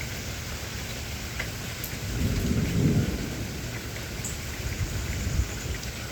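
Steady rain with a roll of thunder that swells about two seconds in, is loudest around the three-second mark, and rumbles off with a smaller low surge later.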